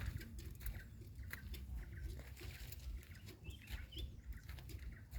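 Outdoor ambience: a steady low rumble of wind on the microphone, scattered light clicks, and a brief faint bird chirp about three and a half seconds in.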